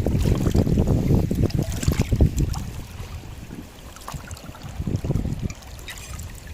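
Wind buffeting the microphone: a heavy low rumble, scattered with short clicks and knocks, that eases off about two and a half seconds in, with a couple of brief gusts later.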